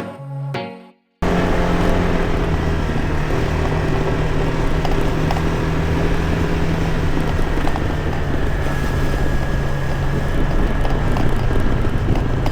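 Background music ends about a second in. Then a small motor scooter runs at a steady speed, its engine hum mixed with road and wind noise.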